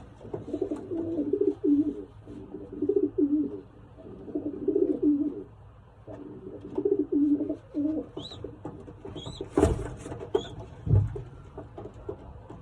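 Racing pigeons cooing, one rolling coo after another. Near the end come a few short high chirps, a sharp knock and a low thump.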